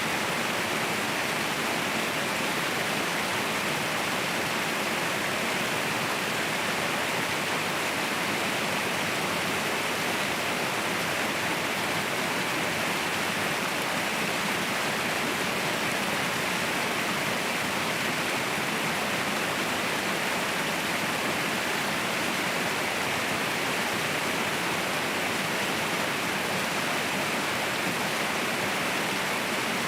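Waterfall roaring: a steady, unbroken rush of falling water that holds an even level throughout.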